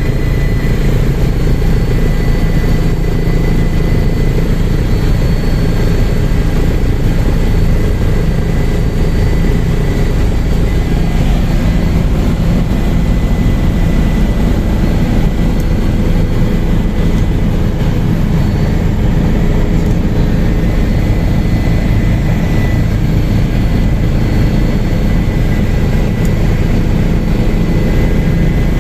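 Helicopter in flight, its rotor and engine giving a loud, steady drone with a thin high whine held on one pitch.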